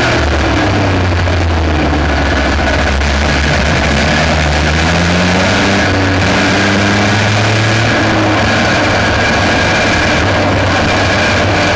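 Aixro rotary kart engine running, picked up close by an onboard camera mounted above the radiator; a loud, continuous drone whose pitch slides up and down.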